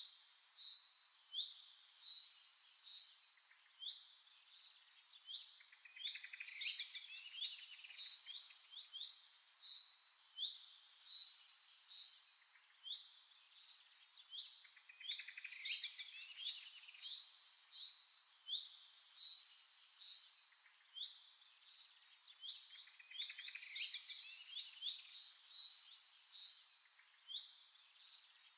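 Several small birds chirping and singing in quick, high trills, the same pattern of calls recurring about every nine seconds.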